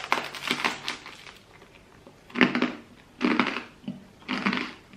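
Crunchy toasted bread being bitten and chewed close to the microphone: a dense crackle in the first second, then separate crunching chews about a second apart.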